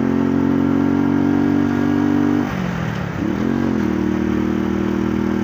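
125 cc motorcycle engine running steadily, then dropping in pitch about halfway through as the throttle closes, with a short rev up and down before it settles at a lower, steady pitch.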